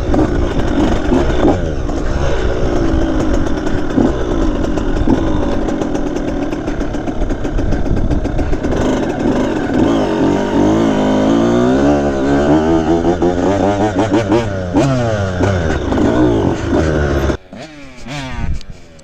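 Dirt bike engine running hard, its pitch rising and falling over and over as it is revved and ridden. The loud engine sound cuts off suddenly near the end.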